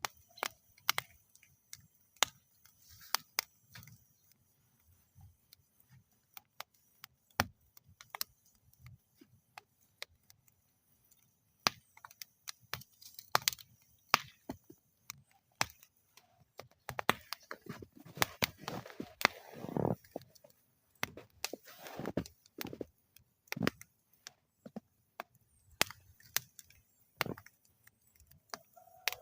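Wood fire in a metal fire bowl crackling: sharp, irregular pops and snaps, sparse at first and coming thicker about two-thirds of the way through, where a short rush of noise joins them.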